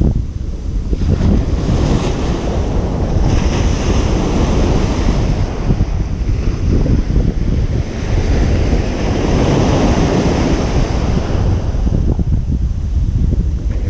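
Ocean surf breaking and washing on a beach, a continuous rushing with waves swelling and easing every few seconds, with a heavy low rumble of wind buffeting the microphone.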